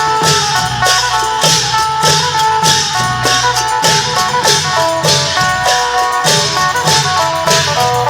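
Isan klong yao procession music: a phin lute plays a fast running melody over long drums, with cymbal crashes about once a second keeping the beat.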